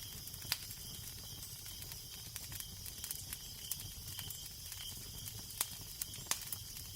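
Wood fire crackling, with small ticks throughout and three sharp pops (about half a second in, and twice near the end), over a steady low wind rumble.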